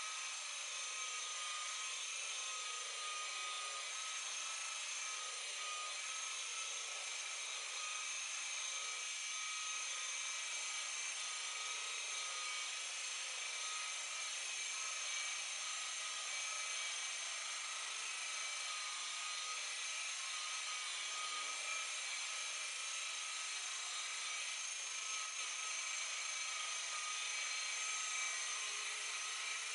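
Electric buffer polishing a boat's gelcoat hull to remove oxidation, running steadily with a constant high whine.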